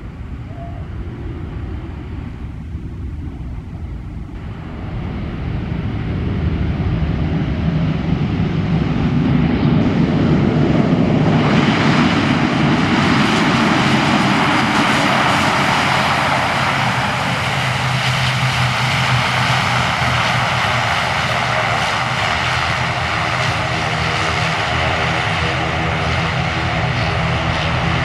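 Airplane flying low on its landing approach, its engine noise swelling about five seconds in, becoming much louder and fuller about eleven seconds in, then holding steady and close.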